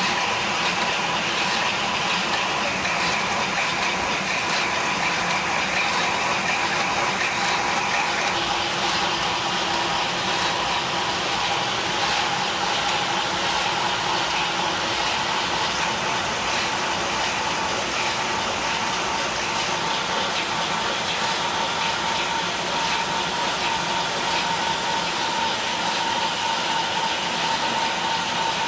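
Lego model marine engine running steadily on test, mixed with added recordings of a real engine running. The sound is a continuous mechanical hum with a steady whine; its tone shifts about eight seconds in, as a higher whine drops out and a lower hum comes in.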